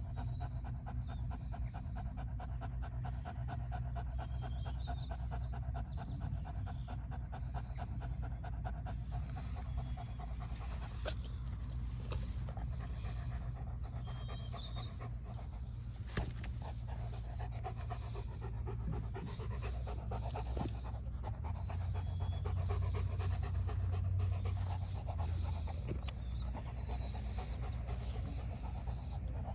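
A dog panting fast and steadily.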